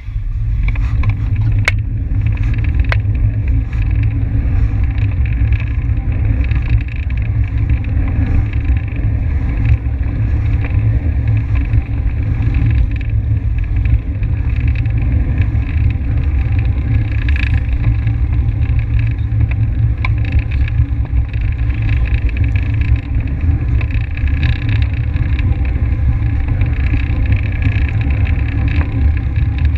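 Steady wind rumble on the microphone of a camera carried by a track cyclist riding at speed, with two sharp clicks about two and three seconds in.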